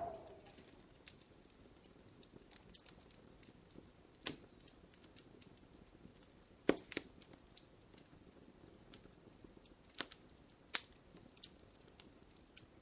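Wood fire crackling in a fireplace: sparse small crackles over a faint hiss, with a few louder pops, the strongest about four, seven, ten and eleven seconds in.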